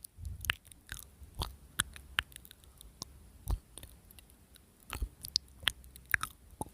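Close-miked chewing and biting of crunchy food, with sharp irregular crackles that sound like firewood burning.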